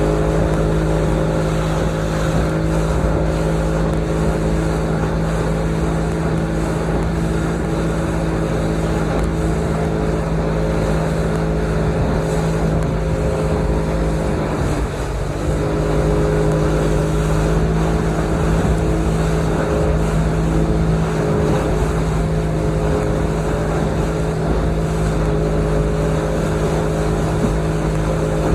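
Motorboat engine running steadily under way, with water and wind noise; about halfway through the engine note dips briefly and then comes back up to speed.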